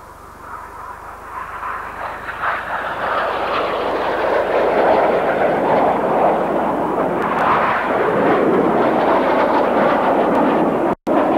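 Red Arrows BAe Hawk jet trainers making a low pass, their jet noise rising over about five seconds to a steady loud rush. The sound cuts out for an instant near the end.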